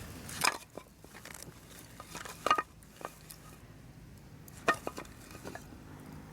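Cookware and utensils knocking and clinking together at a camp meal, a handful of separate sharp clinks, some with a short metallic ring. The loudest come near the middle and toward the end.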